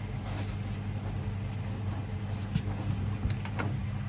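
Hoover front-loading washing machine running a wash: a steady hum with a few light knocks and clicks in the second half.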